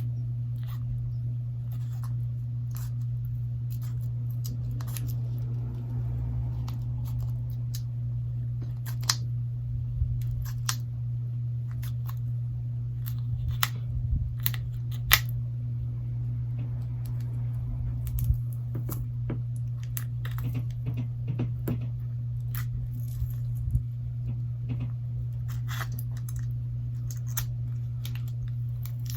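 Scattered small clicks, ticks and scrapes of a Galaxy Note 8 battery being pried loose from its softened adhesive, a few sharper clicks among them, over a steady low hum.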